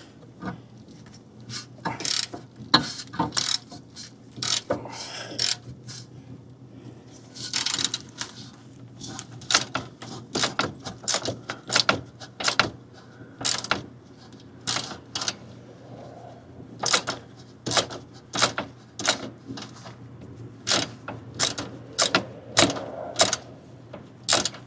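Hand ratchet wrench clicking in short, uneven bursts, one swing at a time, as a nut or bolt is turned.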